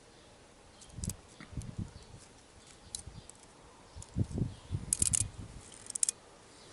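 Scattered light knocks and a few sharp clicks from handling the small metal parts of a car heater blower motor while working on its bearings.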